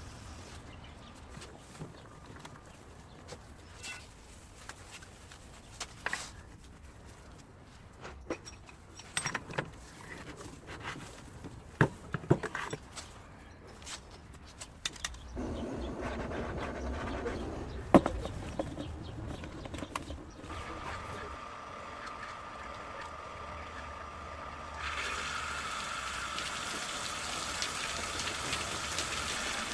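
Scattered clinks and knocks of metal pipe fittings being worked. After a louder noisy stretch, a steady whine from a water pump starts about two-thirds of the way in, and near the end a rush of water joins it as water flows through the newly fitted pipework.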